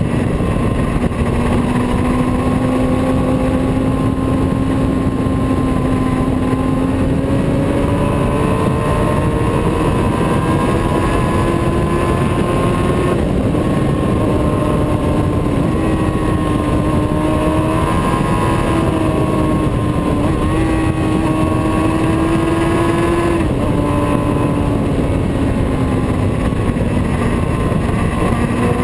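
Motorcycle engine running steadily under way, its pitch climbing gradually through the middle and dropping back near the end as the speed changes, over a steady rushing noise.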